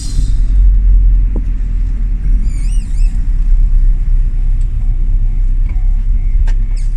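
A classic Mini's A-series four-cylinder engine idling steadily with a deep rumble, running again after a hard start from three months of standing in the cold.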